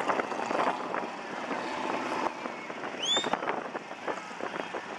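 Off-road SUV's engine running as it tows an inflatable ring through a mud pit, with a short high rising squeal about three seconds in.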